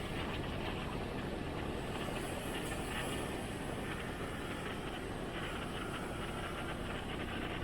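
Motorcycle being ridden at a steady speed: a steady, even rush of engine and road noise that does not change.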